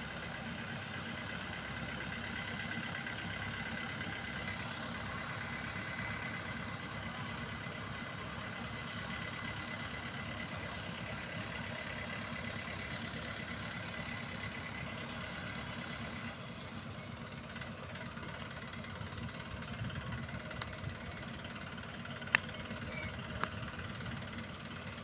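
Heavy diesel machinery engine running steadily, easing slightly a little over halfway through, with a sharp metallic knock near the end.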